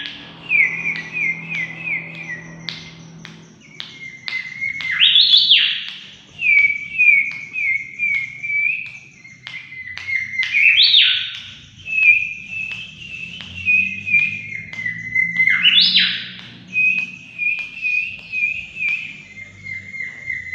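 Mangrove whistler singing energetically: runs of clear, evenly repeated whistled notes, broken three times by a loud whistle that sweeps sharply upward. Short high ticks keep up alongside the song.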